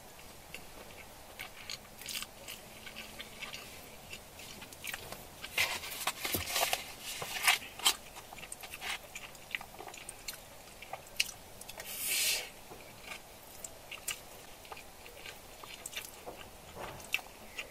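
Close-miked chewing and biting of food, with scattered wet clicks and light crunches, busiest around six to eight seconds in. A brief hiss comes about twelve seconds in.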